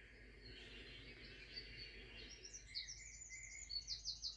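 A small bird chirping faintly: a run of quick high chirps that speeds up into a rapid trill near the end.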